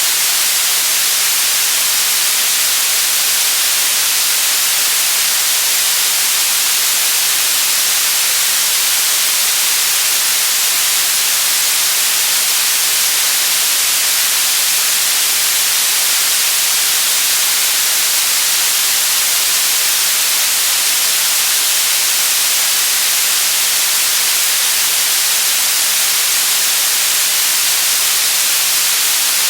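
Steady synthetic white noise, an even hiss strongest in the treble, unchanging throughout.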